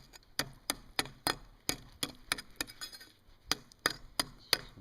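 Sharp knocks, roughly three a second with a short break about three seconds in, from tongs frozen into ice being struck and worked free.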